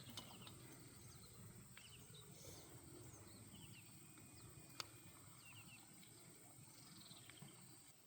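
Near silence: faint outdoor ambience with scattered small bird chirps and a single sharp click about five seconds in.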